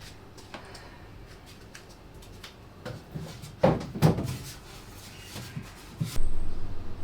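Household handling sounds in a small room: light clicks and taps, then two loud knocks a little past the middle, like a cupboard door or drawer being shut. A louder steady rushing noise starts near the end.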